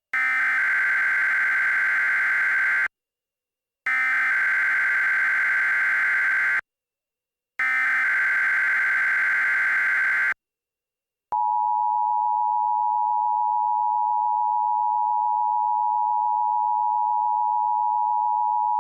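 Emergency Alert System alert tones: three identical bursts of warbling SAME data header, about a second apart. Then comes the steady two-tone EAS attention signal, which starts about eleven seconds in and holds to the end, marking the start of a new alert.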